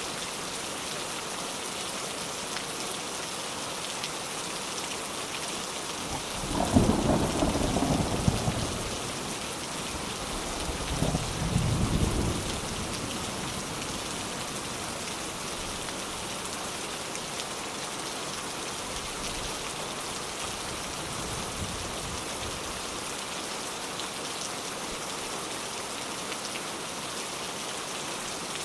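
Steady heavy rain with two rolls of thunder: a loud crack and rumble about a quarter of the way in, then a second, shorter rumble a few seconds later.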